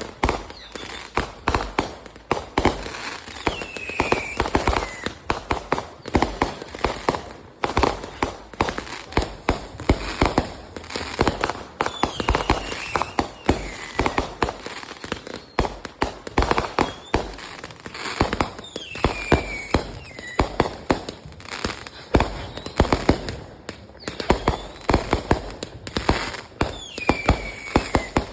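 Fireworks going off continuously, a dense run of sharp cracks and bangs, with a falling whistle about every seven or eight seconds, four times in all.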